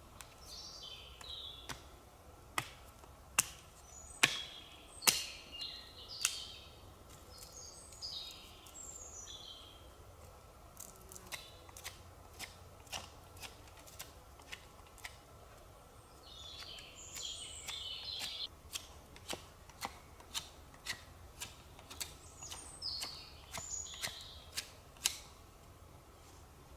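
A songbird singing short warbling phrases every few seconds, over irregular sharp clicks or snaps close by. The clicks are the loudest sounds, with the strongest two a few seconds in.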